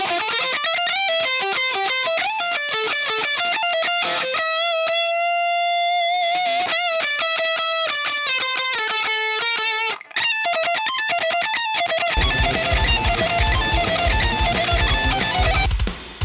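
Electric guitar, the Jackson Roswell Rhoads, playing a lead melody of single notes with bends and a held note with vibrato partway through. About twelve seconds in, drums and a full band backing come in under it.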